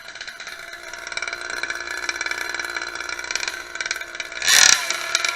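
A small engine running steadily, with a brief loud burst of throttle about four and a half seconds in.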